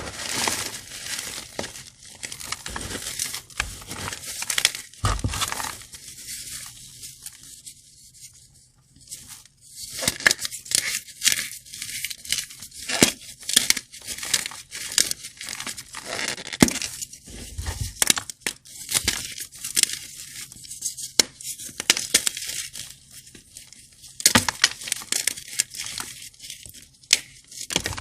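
Dry, crumbly gym-chalk blocks being crushed and crumbled, giving dense, irregular crunches and crackles with a dry hiss.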